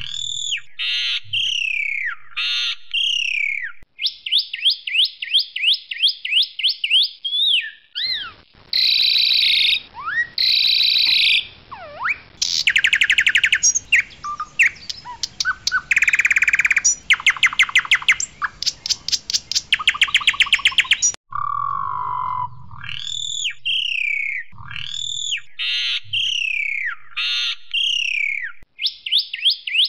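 Asian pied starling (jalak suren) singing loudly and continuously: a varied song of repeated whistled phrases that drop in pitch, with fast rattling, chattering trills in the middle.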